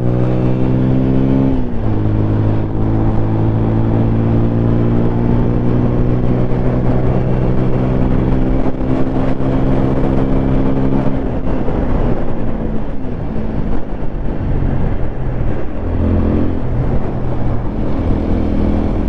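Single-cylinder 200 cc sport motorcycle engine under way: a brief drop in revs about two seconds in, as at a gear change, then held at steady revs until about eleven seconds in, when the note falls away and goes uneven as the throttle closes, picking up again near the end. Wind and road noise run underneath.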